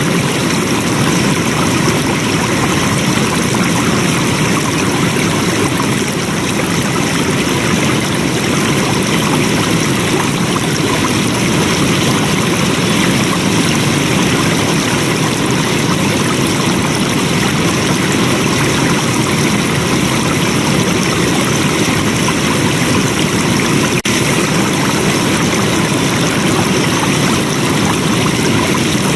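Flowing water: a stream running steadily, with an even, constant rush.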